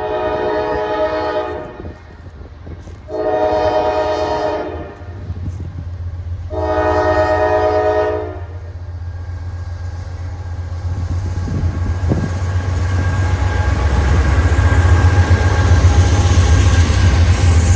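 Norfolk Southern locomotive horn sounding three long blasts, each a chord of several tones, then the low rumble of the train growing louder as it nears.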